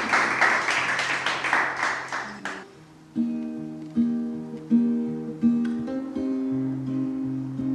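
Audience applause dying away over the first two and a half seconds, then an acoustic guitar begins the next song, picking out a note pattern with a fresh attack about every three-quarters of a second.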